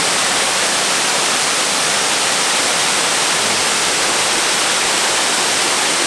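Waterfall and river rapids making a steady, even rush of falling water.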